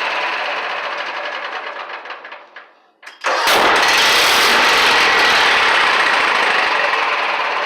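Kohler Magnum 18 lawn tractor engine at half throttle running down as it is switched off, then quiet for a moment. About three seconds in it restarts with a sharp exhaust backfire and runs on loudly, its muffler blown half off by the blast.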